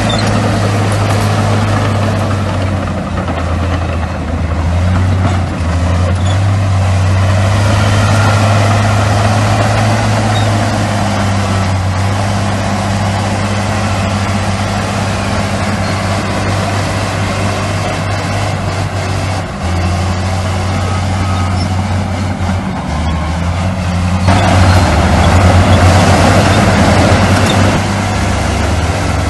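Heavy diesel engines of earthmoving machinery running steadily with a deep low hum. A louder surge of engine noise comes near the end.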